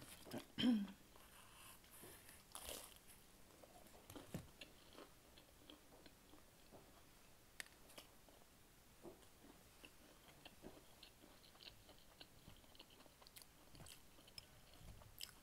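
Faint close-up chewing and biting of food, with scattered small crunches and mouth clicks. There is a brief louder mouth sound near the start.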